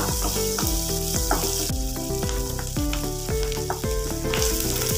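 Chopped shallots and curry leaves sizzling in hot oil in a nonstick kadai as they are stirred with a wooden spatula, over background music with a steady beat.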